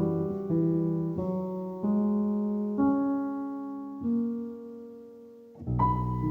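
Soft background piano music, a new note or chord struck about once a second and left to ring. The notes die away for a moment near the end before a fuller passage comes in.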